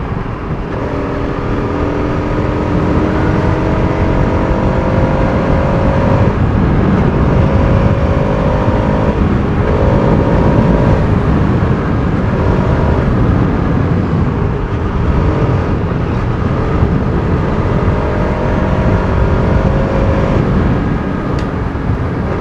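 Bajaj Pulsar RS200's single-cylinder engine under way on the road. Its pitch climbs and drops back several times in the first half as the rider accelerates through the gears, then it settles into cruising, with heavy wind and road noise underneath.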